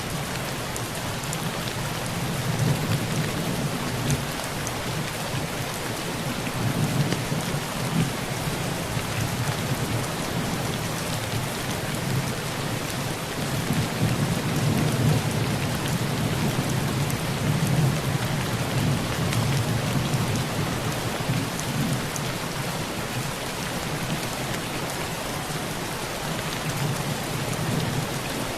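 Heavy rain falling steadily on a tin roof, with a low rolling rumble of thunder underneath that is strongest through the middle stretch.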